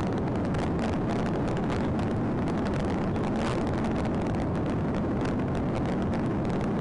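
Sheriff's patrol car driving in a pursuit: a steady rush of engine, tyre and wind noise, with faint knocks now and then.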